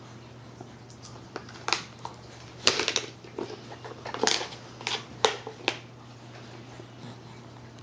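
A baby banging and slapping at his food: a string of irregular sharp taps and smacks, some in quick clusters of two or three.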